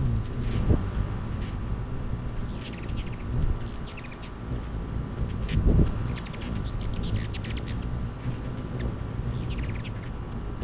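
Hummingbirds chittering: runs of rapid dry ticks and short high chip notes, repeated every second or two, over a low background rumble and a faint steady hum.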